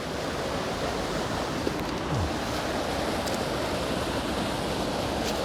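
Waterfall rushing steadily, creek water pouring and splashing over rock ledges.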